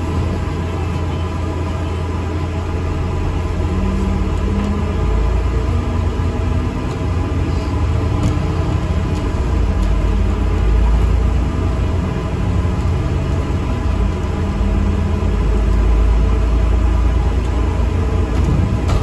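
ADL Enviro 400 MMC double-decker bus on the move, heard from inside: a steady engine and road rumble, with the engine note shifting in pitch now and then.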